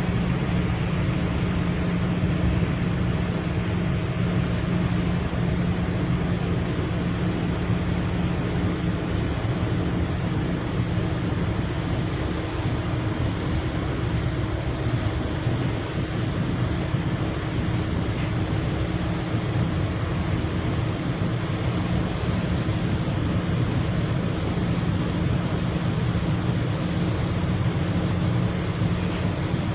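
A steady engine drone with a constant low hum, under a wash of wind noise.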